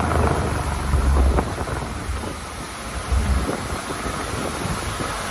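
Thunderstorm noise: a deep rumbling that swells about a second in and again around three seconds, over a steady hiss of wind and rain.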